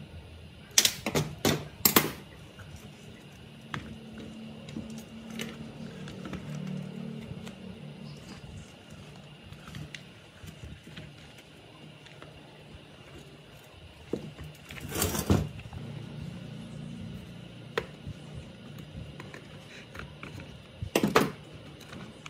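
Several sharp knocks and clicks of tools and parts being handled on a workbench: a quick cluster near the start, one in the middle and a pair near the end, over a low steady hum.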